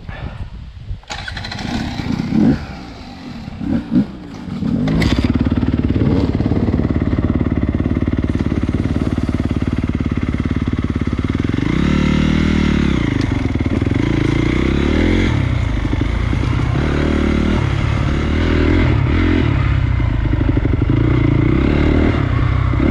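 Honda CRF250 dirt bike's single-cylinder four-stroke engine, quieter for the first few seconds with a couple of knocks, then running loudly from about five seconds in and revving up and down.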